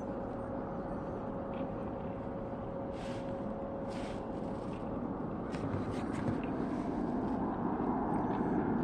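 Airliner on landing approach, its engine noise a steady rushing that grows louder over the second half as it nears overhead. A steady hum fades out about halfway through, and there are a few faint clicks.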